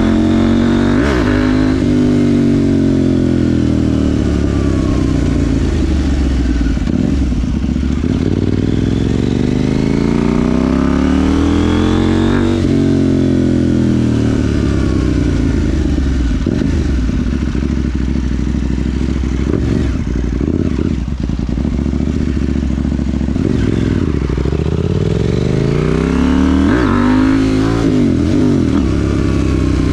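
KTM 790 Duke's parallel-twin engine breathing through a Remus rear silencer with the catalytic converter deleted, heard while riding. The engine note falls at first, climbs steadily for several seconds to a peak about twelve seconds in and drops away, then rises and falls quickly near the end as the bike speeds up and slows through the gears.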